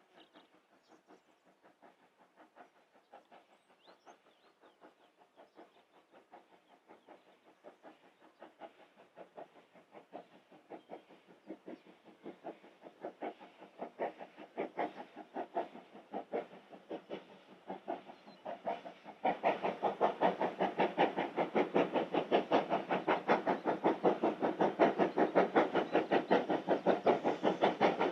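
Steam locomotive working hard, its exhaust beats coming in an even rhythm and growing louder as it approaches, then jumping louder about two-thirds of the way in.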